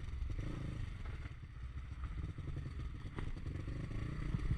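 Pit bike motorcycle engine running at low revs, with clattering.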